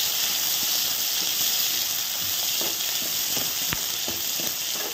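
Chopped capsicum and spring onions sizzling in hot oil in a kadai while a spatula stirs them, with a steady hiss and scattered short clicks and scrapes of the spatula against the pan.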